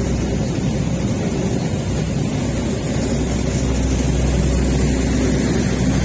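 Train at the station with a steady low rumble from its diesel locomotive engine, swelling slightly about halfway through.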